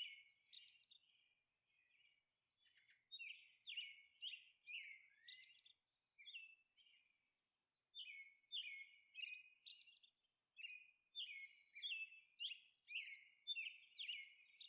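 Faint birds chirping: short, repeated high chirps that begin about three seconds in and settle into about two a second through the second half.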